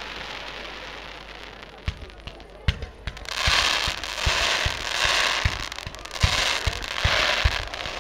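Fireworks display: a few sharp bangs about two seconds in, then from the middle on a quick string of launch thumps and bursts, roughly one or two a second, under loud repeated waves of hissing, crackling sparks.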